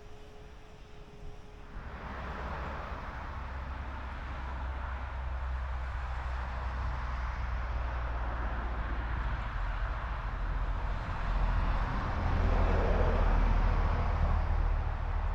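Diema DS 40 narrow-gauge shunting diesel locomotive's engine running. It comes in about two seconds in and grows louder about twelve seconds in.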